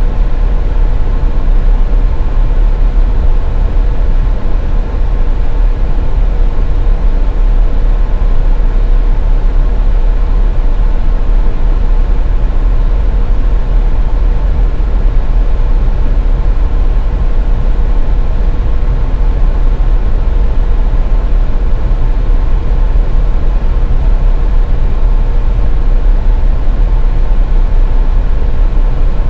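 Steady, rumbling noise of a car driving, heavy in the low end, with a faint steady hum running through it.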